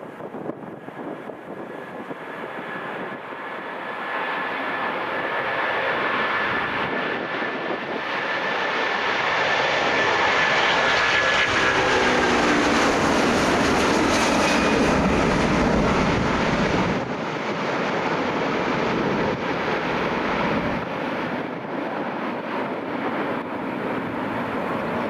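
Airliner passing by: its engine noise builds, is loudest in the middle and then fades, with a high engine whine falling slightly in pitch as it goes past.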